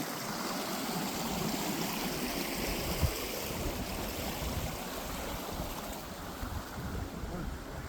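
Creek water flowing steadily, with a single brief knock about three seconds in.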